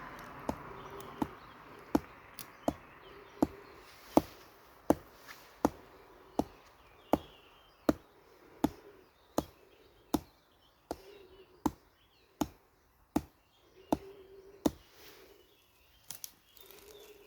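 A steady series of sharp slapping blows in a body-conditioning striking drill, about one every 0.7 seconds, some harder than others.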